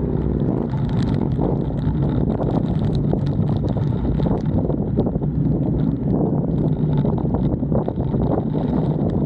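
Wind buffeting the microphone over a motorcycle running steadily at speed.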